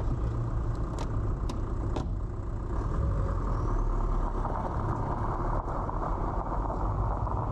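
Heavy truck's engine running steadily with road noise, a low continuous hum, with a few light clicks in the first two seconds.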